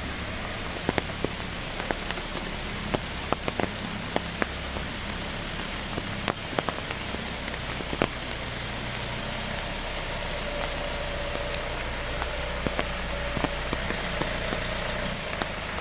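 Steady rain falling, with individual drops ticking sharply and irregularly on nearby surfaces.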